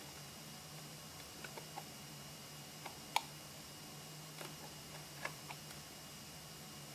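Faint scattered clicks and light taps from handling small tools and the circuit board while a headphone jack is soldered in. The sharpest tap comes about three seconds in, over a steady low hum and hiss.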